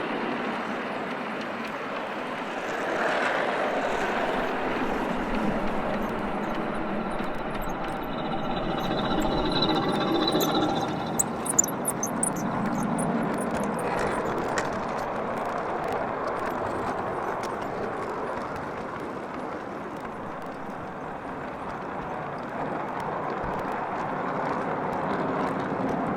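A 5-inch gauge miniature train rolling on the track with a steady rumble, with wind on the microphone. A faint motor whine comes in around ten seconds in, followed by a few sharp clicks.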